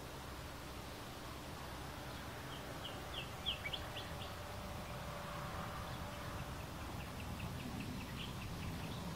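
A bird calling in short high notes: a quick run of about seven notes a few seconds in, then a fainter, faster string of short notes near the end, over a steady low background rumble.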